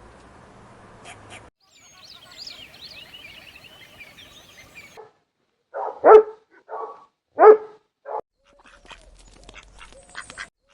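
A dog barking: about five short barks within two seconds, two of them much louder than the others. Before the barks come a few seconds of busy high-pitched chirping.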